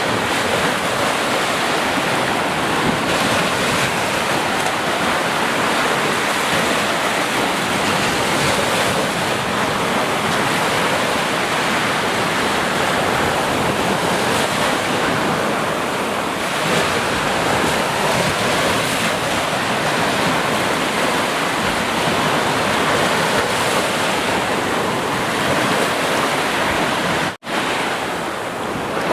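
Sea surf washing continuously onto a shore, a steady roar of breaking waves that swells and eases gently. The sound cuts out for an instant near the end.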